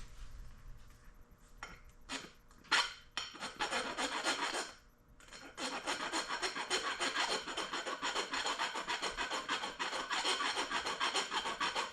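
Hand file rasping back and forth on metal: a few separate strokes at first, then, after a short pause about halfway in, a steady run of quick, even strokes.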